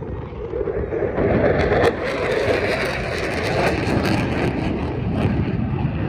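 Aircraft engine noise flying past, swelling about a second in and then holding steady.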